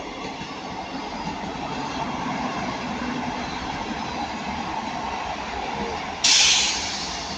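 East Midlands Railway Class 158 diesel multiple unit running past, a steady rumble of engine and wheels on the rails that builds slightly. About six seconds in, a sudden loud hiss cuts in and fades over about a second.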